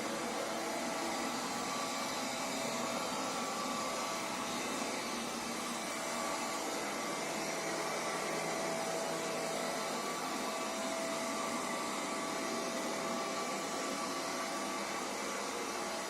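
Midea MR04 robot vacuum cleaner running: a steady whir with a faint hum in it.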